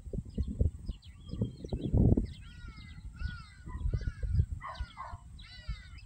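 A bird giving a run of harsh, repeated calls, about one every two-thirds of a second, from about two seconds in, with faint high chirps before them. A low, gusting rumble sits on the microphone throughout.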